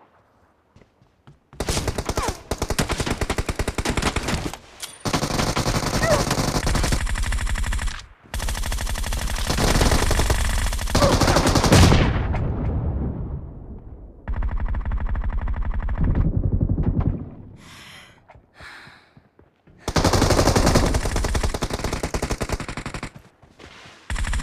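Video game automatic gunfire: about six long bursts of rapid fire, each lasting several seconds, separated by short pauses.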